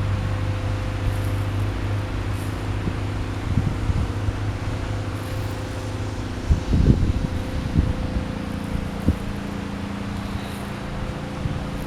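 Wind gusting over the microphone in a strong breeze, with a louder buffet about two-thirds of the way through. Under it runs a steady mechanical hum, like an engine running.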